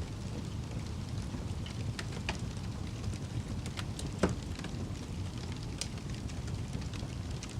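Fire crackling: a steady low rumble of burning with scattered sharp pops and snaps, one louder pop about halfway through.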